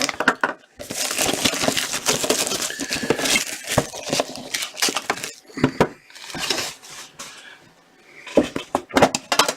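A metal trading-card tin being opened and handled: clinks and clanks of the metal lid and tin, with a long stretch of rustling and crinkling in the first half and a cluster of sharp metallic clicks near the end.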